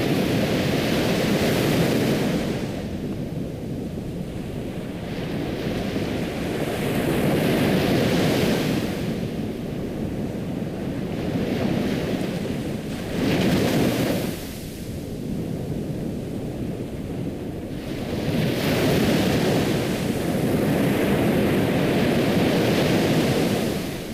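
Ocean waves breaking and washing on a shore, swelling and receding every few seconds.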